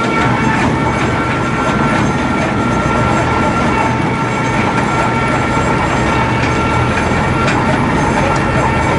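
Mobile log debarking machine running and peeling bark from a log: a loud, steady mechanical noise with a held high whine and a low hum.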